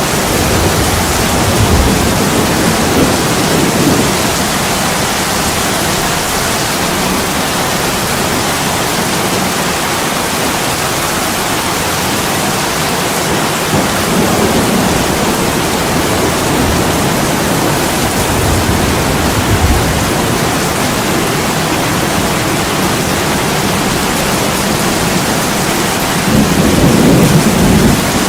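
Heavy rain pouring onto an attic window in a steady hiss. Low rumbles of thunder swell up three times, the loudest near the end.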